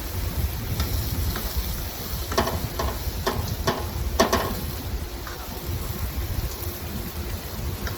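Chicken tikka sizzling as it cooks on a barbecue grill, with a few short clicks or knocks a couple of seconds in.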